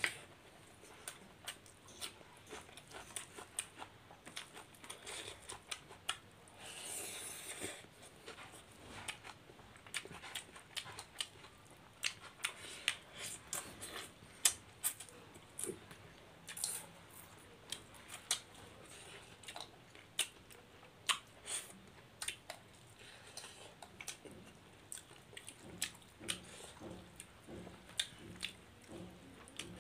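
Close-up eating sounds of fish curry and rice eaten by hand: chewing, lip-smacking and small wet clicks in a quick, irregular string, with a short breathy rush about seven seconds in.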